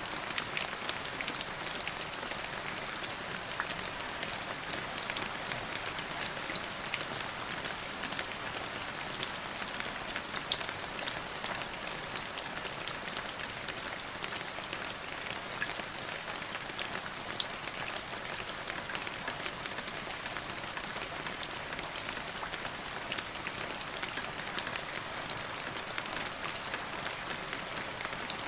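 Steady rain falling and pattering on surfaces, a constant hiss scattered with many sharp individual drop ticks.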